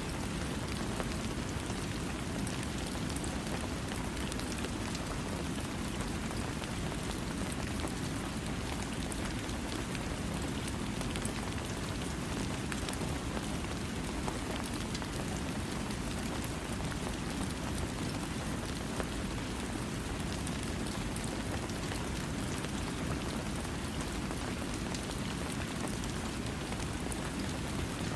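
Steady rain falling, with a constant even hiss and fine scattered drop ticks, and no thunder.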